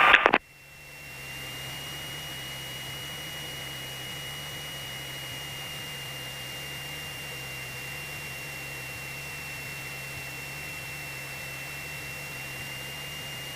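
Steady cockpit noise of a Cessna 172SP in flight as heard through the intercom: a low, even engine hum with a thin steady high whine above it. A short radio burst cuts off right at the start, and the hum swells back in over about a second.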